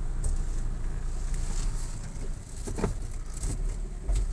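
Suzuki car's engine idling, heard from inside the cabin, with a few faint knocks.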